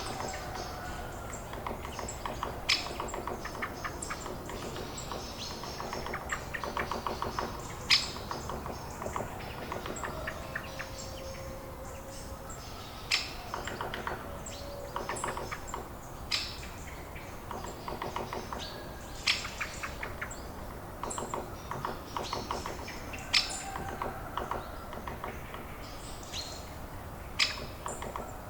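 Birds chirping: short sharp calls every few seconds, with rapid chattering trills between them, over a steady low background noise.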